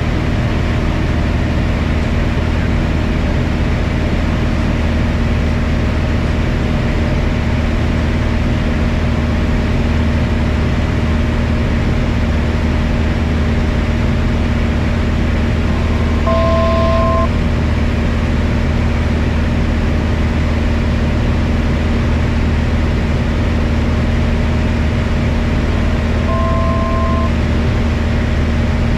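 Piper Cherokee 180's four-cylinder Lycoming O-360 engine and propeller droning steadily in the cockpit; the engine is new and in its break-in hours. Two short two-tone electronic beeps sound about halfway through and again near the end.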